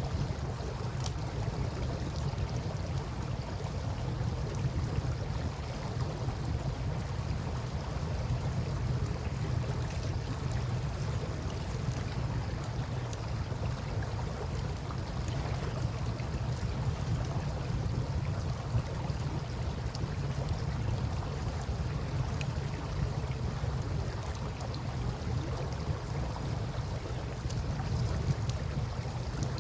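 Campfire crackling with scattered small pops over a steady low rush of river water.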